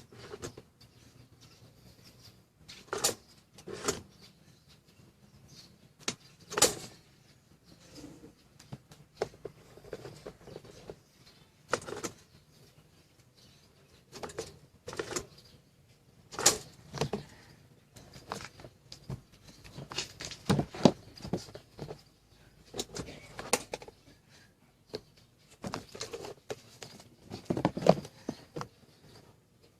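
Handling noises: irregular sharp clicks, taps and knocks of small hard parts being worked on, coming every second or so, with a few louder knocks among them.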